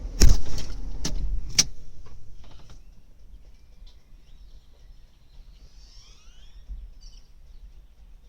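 A loud knock and then two sharper clicks in the first two seconds, as the car's low rumble dies away within about three seconds. After that it is quiet apart from a few faint chirps.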